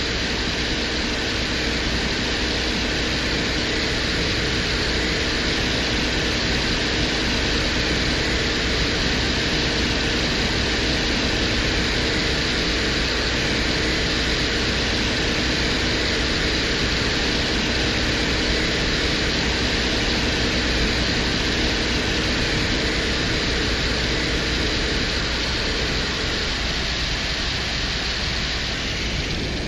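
Venera 14 lander's microphone recording from the surface of Venus: steady static-like hiss with a low hum and several faint steady tones, which fade out near the end.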